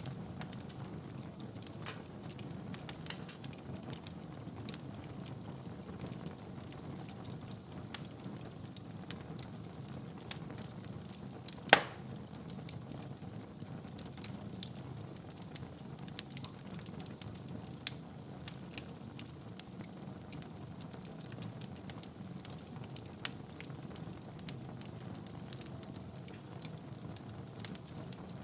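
Wood fire crackling in a fireplace: a steady low rush of flames with scattered small snaps and one sharp, loud pop about halfway through.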